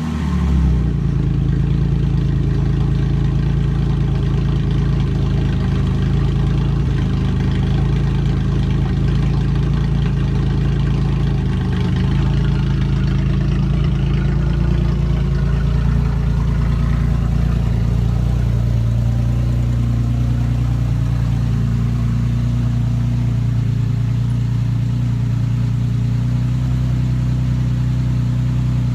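Ford Mustang engine idling steadily just after being started, its low hum shifting slightly in pitch a little past halfway.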